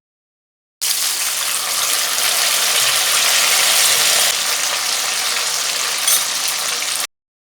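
Marinated chicken pieces deep-frying in hot oil in a kadai: a loud, steady sizzle that starts abruptly about a second in and stops abruptly near the end.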